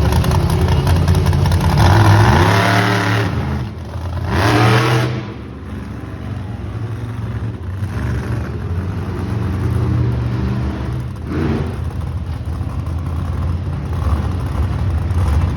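Monster truck engine revving over a steady engine drone. Its pitch swings in swells: a fall a little past two seconds in, a rise near five seconds, and another swell about eleven seconds in.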